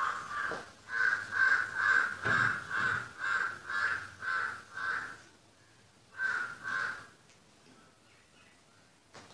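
A bird calling over and over, about two calls a second for five seconds, then two more after a short pause.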